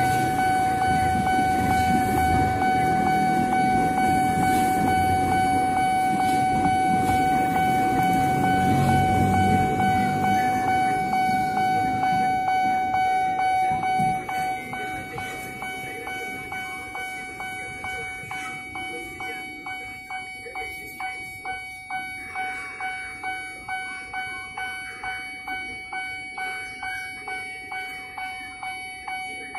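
KRL commuter electric train rumbling over a level crossing, loud for the first half and gone about halfway through. The crossing's warning bell rings throughout, a steady ringing tone, and once the train has cleared it carries on alone in even strokes about one and a half a second.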